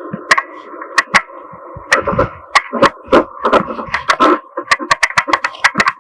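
A quick, irregular run of sharp knocks and taps, several a second and some in quick pairs, over a faint steady tone.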